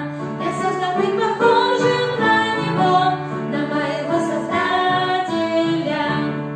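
A song: a female voice singing a melody over instrumental accompaniment, with long held notes.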